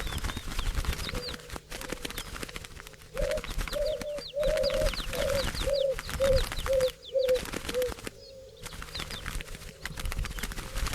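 Small birds chirping in quick short falling notes, with a dove cooing in a run of about ten short low notes partway through.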